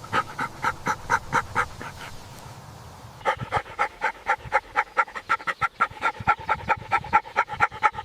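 An animal panting rapidly, about five or six short breaths a second, stopping for about a second near the middle and then starting again.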